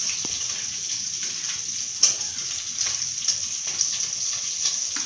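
Beef sizzling in hot oil in a pot while chopped onions are scraped in off a chopping board with a wooden spoon, with light scraping taps and one sharp knock about two seconds in.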